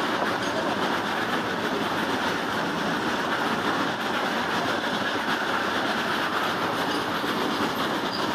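Freight train of covered goods wagons passing at speed: a steady, unbroken noise of steel wheels running on the rails.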